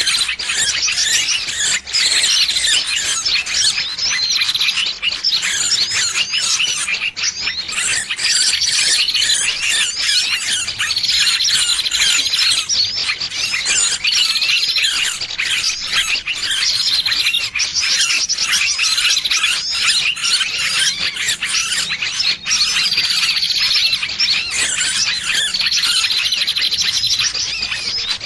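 Small birds giving shrill, squealing distress calls, a bird-lure recording of a trapped bird. The calls run as a dense, unbroken chatter, with short falling notes recurring every second or two.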